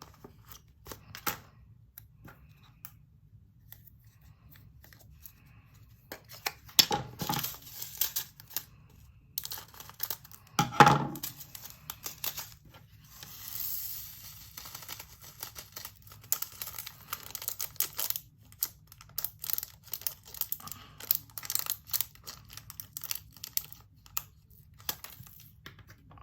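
Small plastic bags of diamond-painting resin drills crinkling and being torn open, with the drills clicking and rattling into small plastic storage containers, and two louder knocks partway through.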